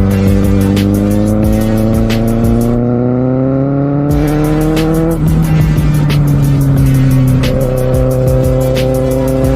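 Kawasaki Z750R's inline-four engine, heard on board, pulling through the revs with a steadily rising pitch; about five seconds in, an upshift drops the pitch, and the engine runs on fairly steadily after that.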